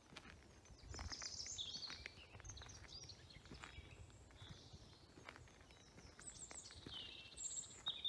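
Woodland birds singing faintly in short high phrases, about a second in and again near the end, over quiet outdoor ambience with scattered light clicks.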